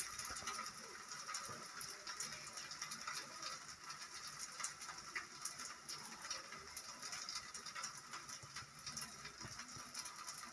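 Adai batter frying in oil on a hot iron tawa, a faint steady sizzle with many small crackles.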